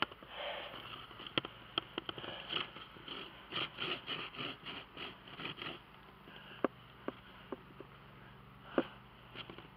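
Handling noises from closing up a beehive: a busy run of scraping, rustling and short clicks, then a few separate sharp clicks and knocks over the last few seconds.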